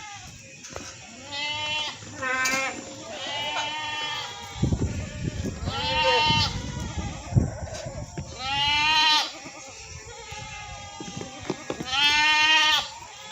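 Goats bleating: about six separate calls, each under a second long with a quavering pitch, spread over the stretch. A low rumble sits under the calls in the middle.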